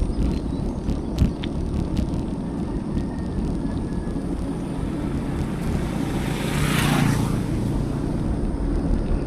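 Steady wind rumble on the action camera of a moving bicycle, with a few light clicks early on. A vehicle passes about seven seconds in, its noise swelling and then fading.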